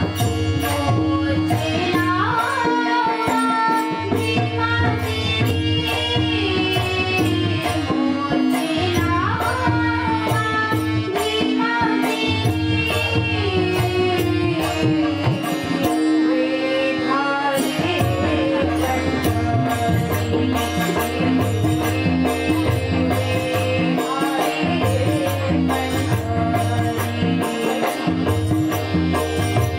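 Live Marathi devotional bhajan music: a tabla-type hand drum and sharp, evenly repeated percussion strokes keep a steady beat under a held drone and a gliding melody line.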